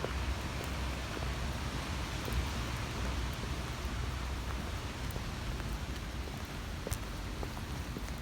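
Steady rain falling, with a few sharp drop ticks standing out from the patter.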